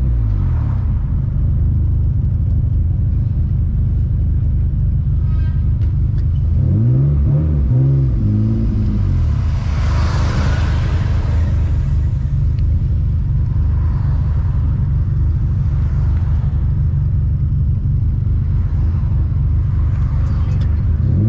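Turbocharged Infiniti G35's VQ35DE V6 running at low revs in slow traffic, heard from inside the cabin: a steady rumble with the engine pitch rising and falling a few times as it is given throttle. A hiss swells and fades about ten seconds in.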